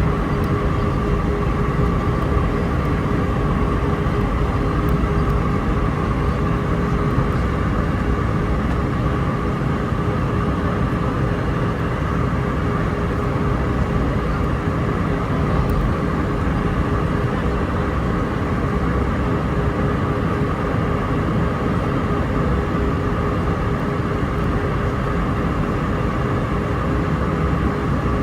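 Cabin noise inside an Airbus A319-131 airliner on approach: a steady rumble of airflow and its IAE V2500 turbofan engines, with a steady whine held throughout.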